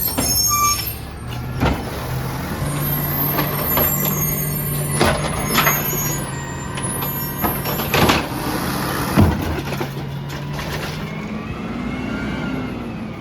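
Peterbilt 320 garbage truck running, its engine a steady hum, with several sharp knocks and a hiss of air about two thirds of the way through.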